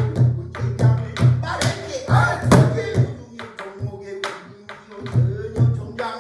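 Korean buk (pansori barrel drum) playing a steady rhythm of deep strokes on the skin and sharp stick strikes, with a pansori singer's voice coming in over it for a stretch in the middle.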